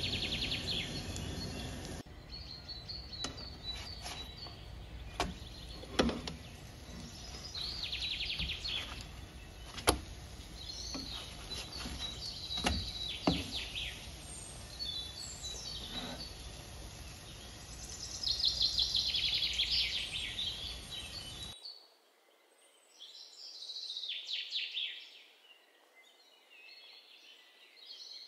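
Birds chirping in short rapid trills, over a steady sizzle of egg-soaked bread frying in oil in a flat pan, with a few sharp clicks. About three-quarters of the way through the sizzle stops and only the bird chirps remain.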